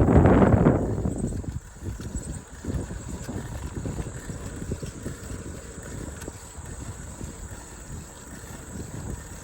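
Wind buffeting the microphone on a moving bike, heavy at first and easing off after about a second and a half. It leaves a lower, uneven rumble with scattered thumps from the ride.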